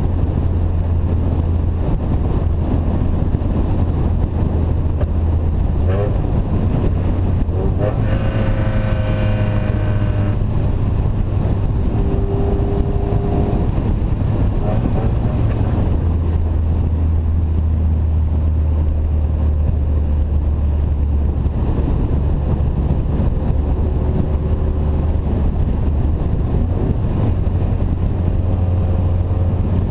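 Vehicle engine with an open, unsilenced exhaust running steadily with a low drone, with wind noise on the microphone; the engine note shifts slightly a couple of times and a brief higher tone sounds about a third of the way in.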